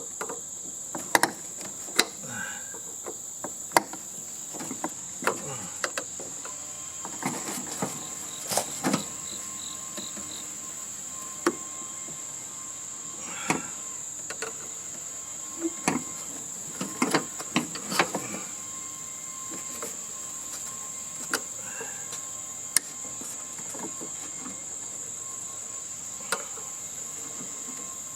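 Irregular metal clicks, taps and clanks as hand tools work a part loose on a hotel heating and air-conditioning unit. A steady high-pitched insect-like buzz runs underneath throughout.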